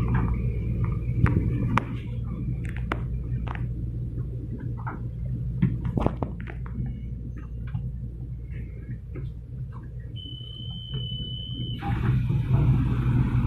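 Low steady hum inside a passenger train carriage, with scattered light clicks and knocks. Near the end a single high beep sounds for about a second and a half, then a loud hiss starts abruptly.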